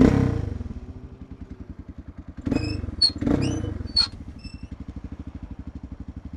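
Single-cylinder Suzuki dual-sport motorcycle engine idling with an even beat of about a dozen pulses a second, after a throttle blip at the start. Two short blips come about two and a half and three seconds in, with a few short high squeaks among them.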